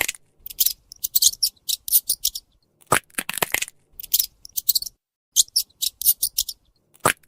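Squirrel chattering: quick runs of sharp, high clicking calls, several to a run, repeated with short gaps between runs.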